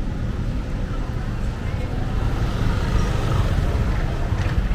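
Busy street ambience: a steady low rumble of motor traffic with voices in the background.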